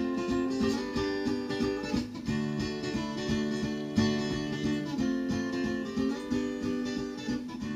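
Acoustic guitar playing chords in an instrumental passage of a folk-style song.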